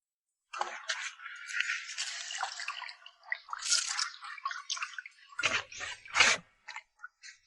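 Water dripping and splashing with irregular clicks and rattles, starting suddenly about half a second in.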